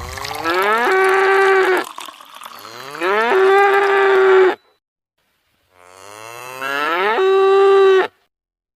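Cow mooing three times, each call rising in pitch and then holding steady before cutting off abruptly.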